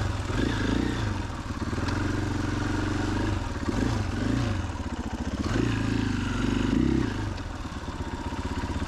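KTM 500 EXC-F single-cylinder four-stroke dirt bike engine under way, revs rising and falling as the throttle is worked on and off, with swells about two, four and six to seven seconds in.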